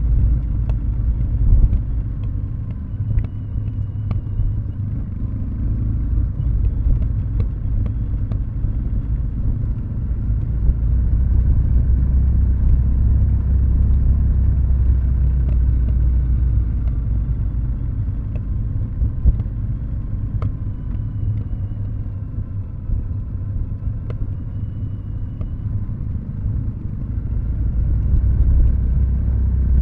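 Kawasaki W650 air-cooled parallel-twin with Nasert Trad mufflers running at low revs with the throttle closed, coasting downhill on engine braking: a steady low exhaust rumble that swells and eases gently, with faint scattered clicks.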